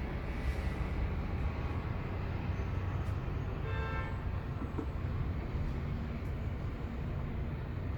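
Steady low background rumble, with a short pitched call or hoot about four seconds in.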